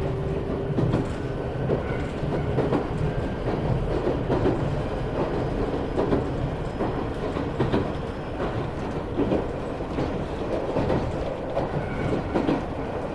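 Running noise heard inside an Iyotetsu 3000 series electric train car (MoHa 3103) under way: a steady rumble of wheels on rail, broken by regular clacks as the wheels pass over rail joints.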